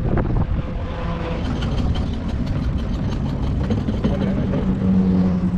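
Vintage V8 race car engine running, a deep steady drone that grows louder and holds a slightly higher pitch in the last second or two.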